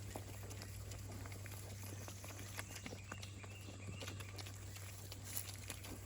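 Young pigs eating feed off the ground and rooting, with many small scattered crunches and rustles.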